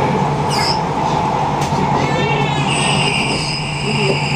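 Passenger train running, heard from inside the carriage: a steady rumble of wheels on rail with a low hum. A little over halfway through, a high, steady squeal joins in.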